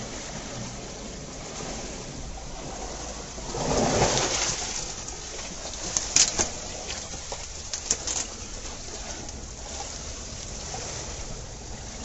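Sea waves washing into a rocky hole, with one louder surge about four seconds in and a few sharp splashes or clicks around the middle.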